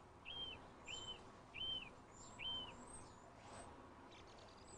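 A bird calling faintly: a short arched note repeated evenly about every 0.7 s, four times, then stopping about two and a half seconds in, with fainter thin high chirps.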